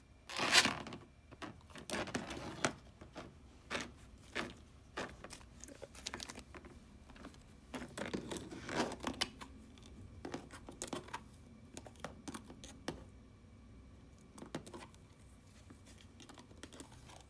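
Cane Corso gnawing a pig ear: irregular crunching and clicking of teeth on the tough, oily chew, with a loud crunch about half a second in.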